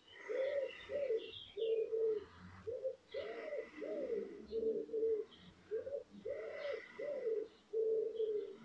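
Bird calls: about a dozen short, low cooing notes in quick groups, with fainter high chirps from other small birds.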